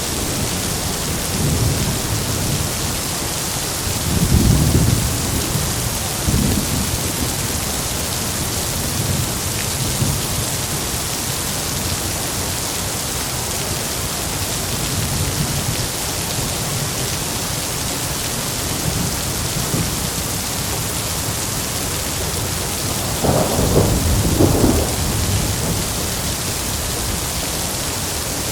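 Heavy, steady rain hissing, with low rolling rumbles of thunder. The strongest rumble comes about four seconds in, and another, louder and sharper one comes near the end.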